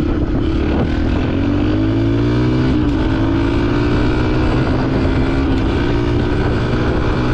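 Yamaha dirt bike engine running under way, its pitch rising as it accelerates, with a brief dip near three seconds in, then holding fairly steady.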